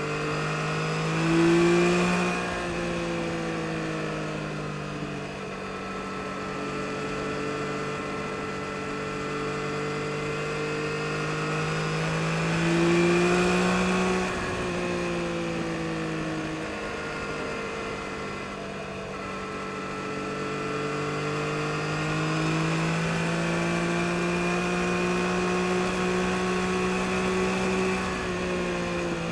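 2022 Yamaha MT-09 SP's 890 cc inline-three engine under way, revs rising under throttle about a second and a half in and again about thirteen seconds in and easing off between, then climbing and holding steadier revs near the end.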